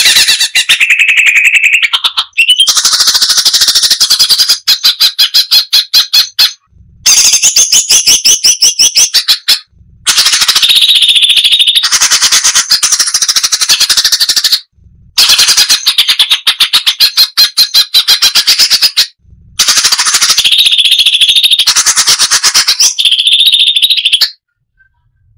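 Cucak cungkok singing a loud, fast chattering song of rapidly repeated high notes, delivered in runs of a few seconds with brief silent breaks between them.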